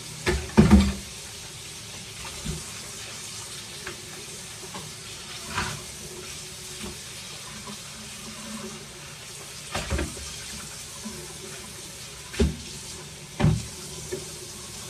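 Shrimp frying in olive oil in a pan: a steady sizzling hiss, broken by a handful of short knocks, two near the start and several more in the second half.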